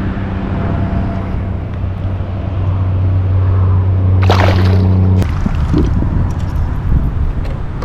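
A steady low motor hum that cuts off suddenly about five seconds in, with water sloshing underneath and a brief rushing noise just after four seconds.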